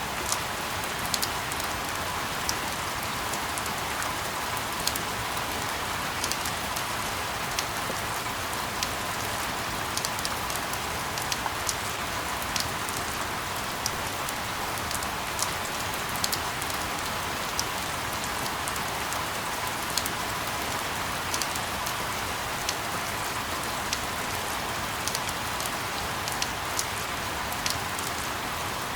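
Steady rain falling, an even hiss dotted with frequent sharp drop ticks.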